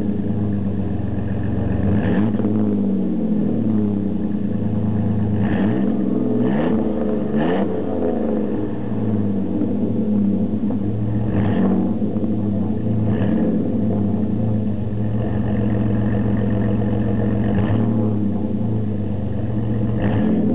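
Chevy S10's 4.3-litre V6 running through a Flowmaster Super 44 single-in, dual-out muffler and a Magnaflow performance catalytic converter, idling and blipped about eight times, the pitch rising and dropping back to idle after each rev. The owner calls the exhaust pretty loud and throaty.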